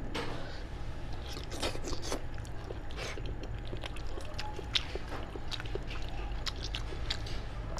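Close-miked eating of a sheep's head: chewing meat with irregular wet mouth clicks and small crunches while the meat is pulled off the bone by hand.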